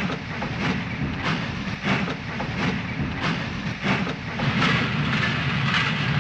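Steam locomotive running: a steady rumble with exhaust chuffs at about two beats a second.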